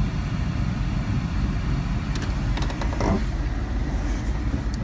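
Steady low rumble of a motor vehicle running, with a few light clicks about halfway through.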